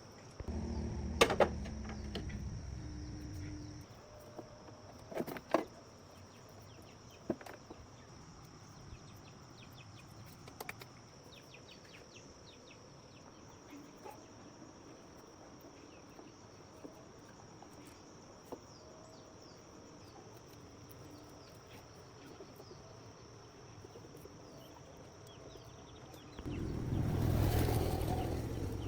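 Insects trilling steadily on one high, even note. A few sharp knocks come in the first several seconds, and a low rumble rises at the start and again near the end.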